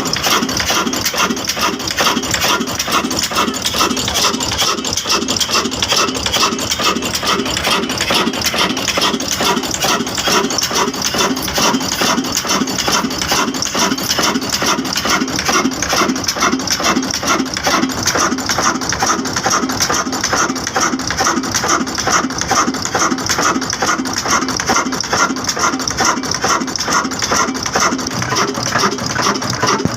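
Old black diesel engine running steadily with an even, rhythmic clatter of firing beats.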